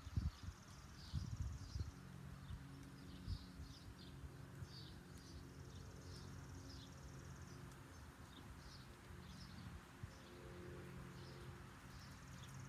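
Songbirds chirping and calling in repeated short phrases over a faint, steady low hum. A few low thumps in the first two seconds.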